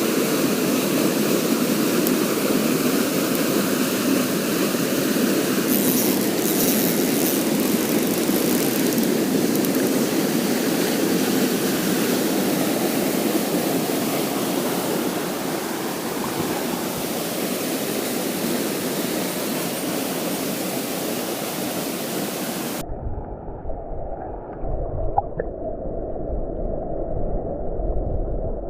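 Mountain stream rushing over rocks, a steady loud hiss of water. About 23 seconds in it cuts abruptly to a muffled, low rumbling water sound, as heard from a camera under the water.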